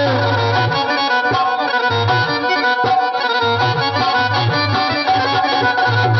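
Instrumental Mewati folk music: a reed instrument holding a sustained melody over a repeating low drum beat.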